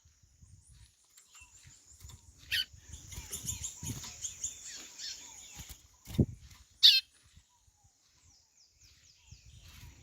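White-bellied seedeater (chorão) calls: two loud, sharp notes that slide down in pitch, about two and a half and seven seconds in, over fainter high twittering. A low thud about six seconds in.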